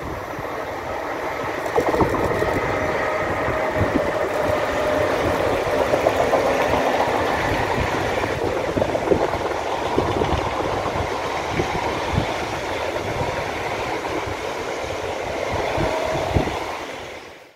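A freight train of loaded scrap-steel wagons, headed by two Class 189 electric locomotives, rolling past: a steady rumble of wheels on rail with irregular clacks. It builds over the first two seconds and fades near the end as the last wagons pass.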